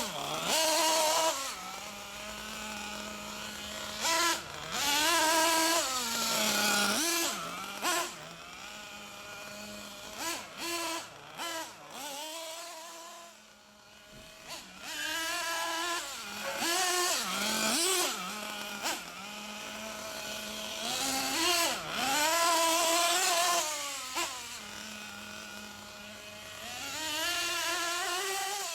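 Miniature SH-1/8 gasoline engine running during its break-in, its revs rising and falling again and again. About twelve seconds in it drops away almost to nothing for a second or two, then picks up and revs on.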